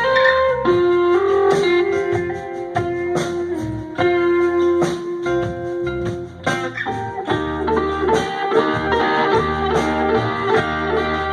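A blues band playing live, led by an electric guitar solo: long held notes that bend slightly, then a run of quicker notes about seven seconds in, over bass and drums.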